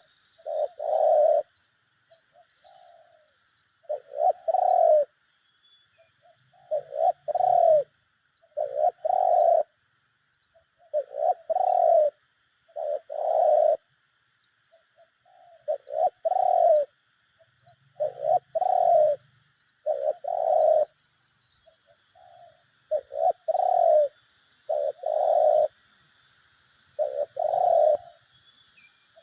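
Spotted doves cooing: short phrases of two or three deep coos repeat every second or two. This is a caged decoy dove and wild doves calling back and forth in a lure contest. Faint high chirping of small birds sits behind them.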